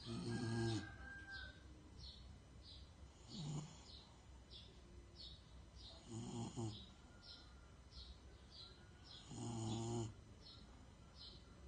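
Bulldog snoring in its sleep, four snores about three seconds apart.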